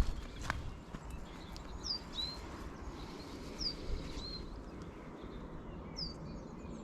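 A songbird calling repeatedly, a high downward-slurred note followed by a lower short note, about every two seconds, over faint outdoor background noise.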